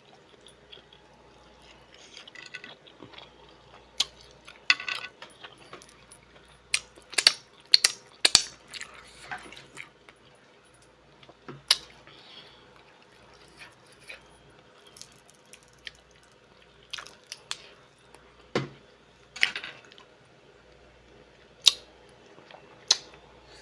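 Close-up eating sounds: mussel and clam shells clicking and clinking against each other, mixed with wet chewing and sucking of buttery seafood, in irregular sharp bursts with pauses between.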